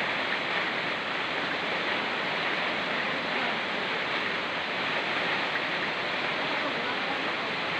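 Rain falling over a fast-flowing mountain river: a steady, even rush of water that does not change.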